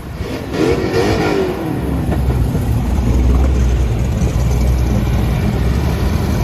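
Car engine running with a heavy, low, steady drone, with a short wavering rise and fall in pitch around the first second, as in a brief rev.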